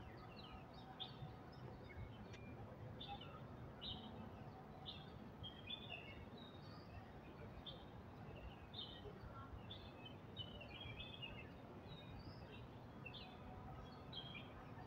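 Faint birdsong: short high chirps repeated about once a second, briefly busier twice, over a low steady background rumble.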